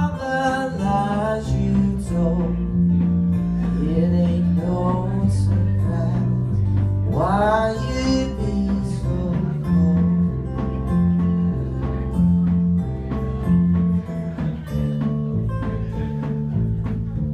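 Live blues band playing: a steady, repeating bass line under lead notes that bend and slide upward in pitch in the first half, then shorter picked notes.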